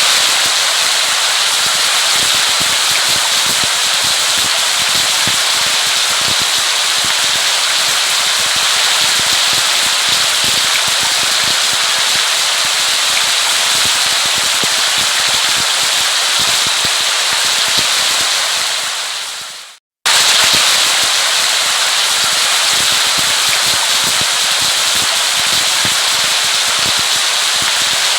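Heavy rain: a steady hiss thick with the crackle of countless drops hitting a surface. About 20 seconds in it fades away and, after a brief silence, starts again abruptly, as at the seam of a looped recording.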